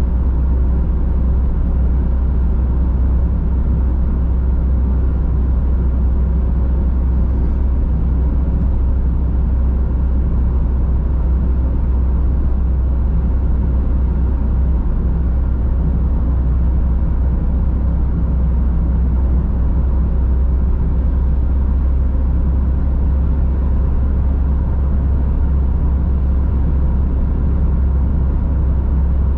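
Car driving steadily at speed: a continuous deep rumble of engine and tyre-on-road noise that holds level throughout.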